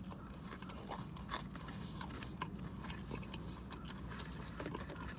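Soft chewing and wet mouth clicks from someone eating a piece of pizza, over a low steady hum.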